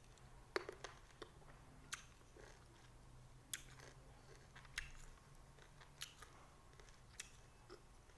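Faint chewing of a whole small green lime, with short sharp mouth clicks and crunches at irregular spacing, about one a second.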